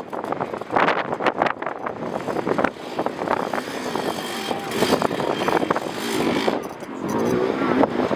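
Enduro dirt bike engine revving in short, uneven bursts.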